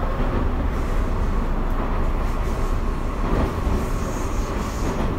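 Tobu 9050 series electric train standing at an underground station platform: a steady low rumble of the stationary train and the station, with no rhythm or impacts.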